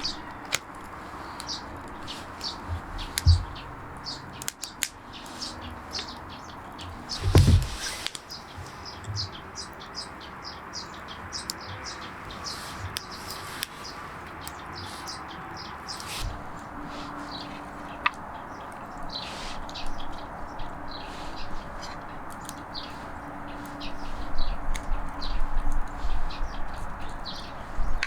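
Small birds chirping in short, repeated calls, with a couple of dull knocks about three and seven seconds in.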